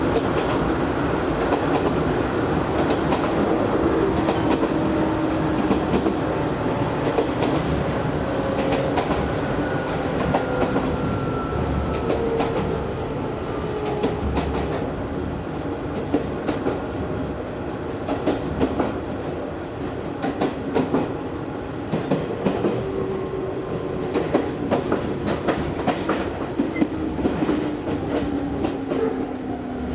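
Running sound inside a resistance-controlled Izu Hakone Railway Series 3000 electric train car: a steady rumble with whines that slide slowly down in pitch, and wheels clicking over rail joints, the clicks coming more often in the second half.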